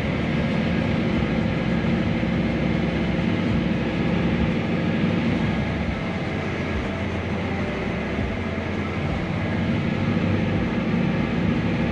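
Heavy diesel harvest machinery running steadily in a corn field, a constant low engine drone under a wide mechanical hum.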